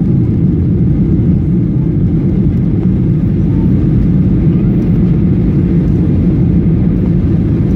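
Steady cabin noise inside a Boeing 737 airliner in flight: the constant deep rush of engines and airflow heard from a seat in the cabin.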